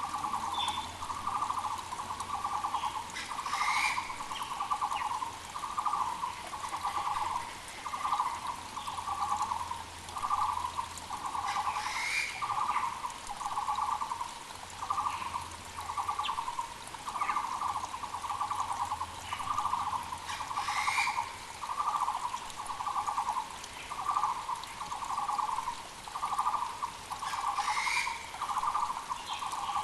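Taiwan (Muller's) barbet calling in a long, unbroken series of low, hollow notes, about one and a half a second. Another bird gives a short, higher, rising call about every eight seconds, over the faint rush of a mountain creek.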